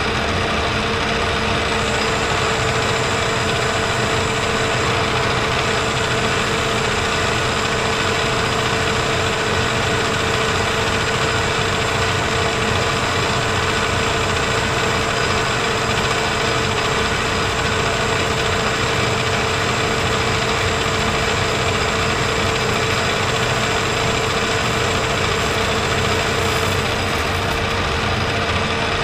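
Metal lathe running steadily while the tool takes a deep turning cut, about 65 thousandths of an inch, down the bushing blank. There is a steady hum with one strong constant tone.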